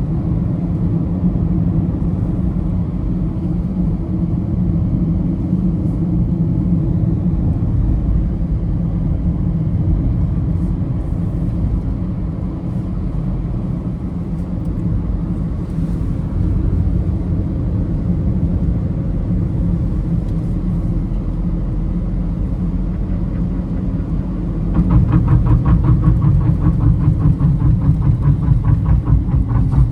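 Steady low rumble of a road vehicle in motion. About five seconds before the end it gets louder and takes on a fast, even pulsing.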